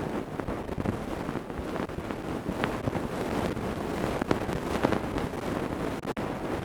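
Ear-cleaning tools scraping and rubbing close against a microphone's ear: a dense crackling rustle with scattered sharp clicks.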